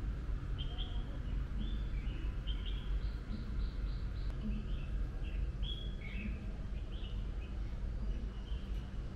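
Small birds chirping repeatedly in short high notes, with a quick run of about five notes a little after three seconds in, over a steady low background rumble.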